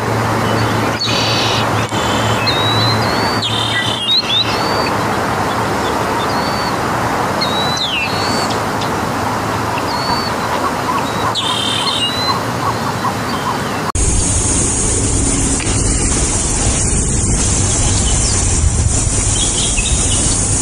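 Songbirds giving short chirps and whistled calls, some gliding down in pitch, scattered over a steady outdoor background. About two thirds in the sound cuts sharply to a steady high-pitched hiss with no chirps.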